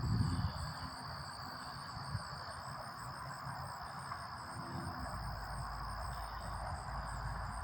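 Steady outdoor insect chorus, one constant high trill with a fainter pulsing one above it, over a steady rush of distant highway traffic.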